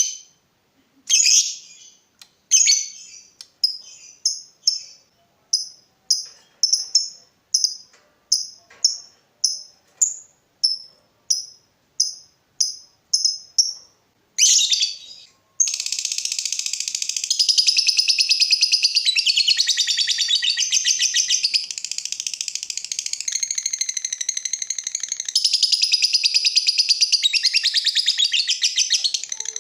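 Lovebird singing: a run of short, sharp, high chirps about two a second, then from about halfway an unbroken fast chattering trill, the rapid 'ngetik' song prized in trained lovebirds.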